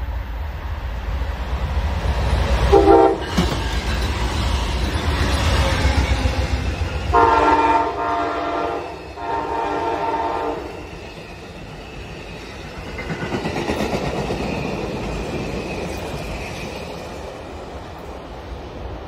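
Amtrak passenger train led by three GE P42DC diesel locomotives approaching and passing with a low engine rumble. The horn sounds a short blast about three seconds in, then two longer blasts between about seven and ten seconds. The passenger cars then roll by with steady wheel noise on the rails.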